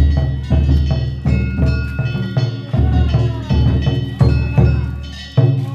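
Danjiri festival float's narimono music: a big taiko drum beaten in a fast, steady pattern, with hand-held bronze gongs (kane) clanging over it.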